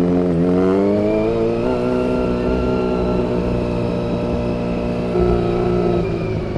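Honda CBR400RR's inline-four engine pulling away under throttle: the revs climb over the first couple of seconds, then hold steady at a high pitch.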